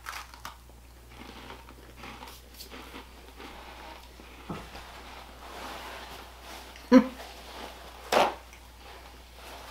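Two people biting and chewing crunchy ginger cream biscuits, with soft crunching and small clicks. There is a short low "mm"-like vocal sound about seven seconds in, and a brief sharp rip just after eight seconds as a paper towel is torn off a roll.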